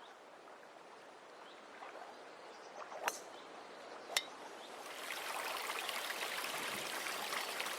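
Trickling water fading in and growing louder, with two sharp clicks about three and four seconds in.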